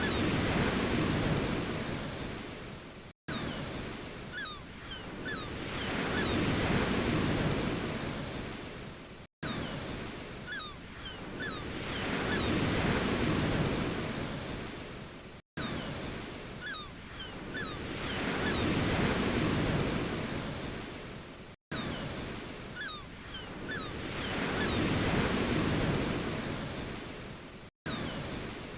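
Ocean waves breaking and washing in, each surge swelling and fading about every six seconds. A very short dropout between each repeat shows a brief recording played on a loop.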